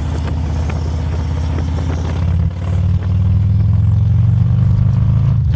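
Harley-Davidson Road Glide ST's Milwaukee-Eight 117 V-twin running through an SPC Concepts 2-into-1 exhaust while riding. About halfway through the sound dips briefly, then runs louder and deeper as the throttle opens.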